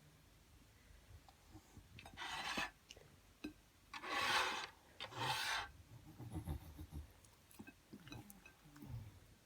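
Olde English Bulldog huffing and snuffling in three short raspy bursts, then soft smacking and chewing sounds as it eats fruit.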